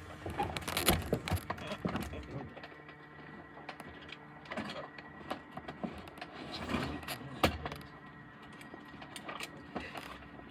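Scattered knocks, clicks and rustling as people shift about and climb out of a parked Cessna 172's cabin, over a faint steady tone.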